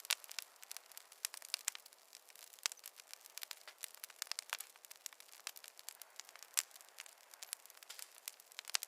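Wood fire crackling in a fireplace: irregular sharp pops and snaps, several a second, over a faint hiss.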